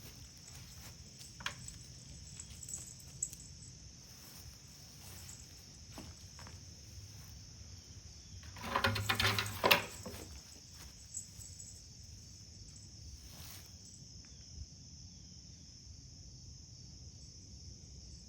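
Insects trilling steadily, with scattered small clicks and taps. About 9 seconds in comes a louder pitched sound lasting about a second and a half.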